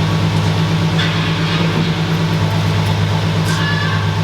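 Nissan Z car's engine, fitted with a new turbo kit and downpipe, idling steadily with an even low pulse.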